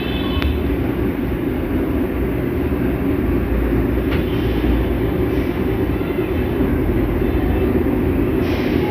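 Steady low rumbling noise with no clear pattern.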